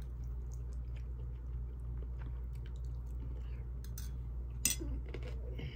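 A person chewing a mouthful of beef and broccoli, with small soft mouth clicks, over a steady low hum. One sharp click about three-quarters of the way through.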